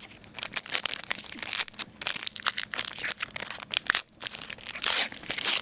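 Foil wrapper of a Panini Prestige football card pack crinkling and tearing as it is opened by hand, a dense irregular crackle with a brief pause about four seconds in.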